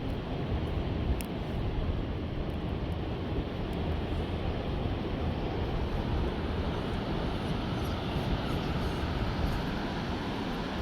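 Strong wind buffeting the microphone: a steady, gusting rumble with a hiss over it.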